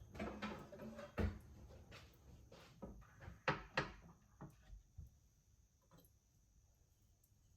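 Kitchen handling noises: a run of short knocks and clicks, the sharpest about a second in and two close together around three and a half seconds, then a few faint taps.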